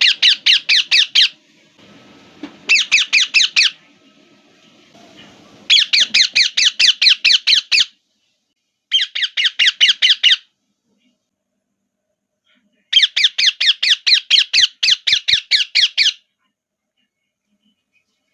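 Pet parrot screeching in rapid runs of shrill, repeated calls, about six a second, in five bursts of one to three seconds separated by short pauses.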